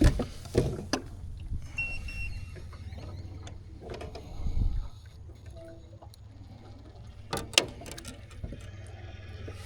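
Scattered clicks and knocks of gear being handled in a boat over a steady low rumble, with a brief high tone about two seconds in and a sharp loud click about three-quarters of the way through.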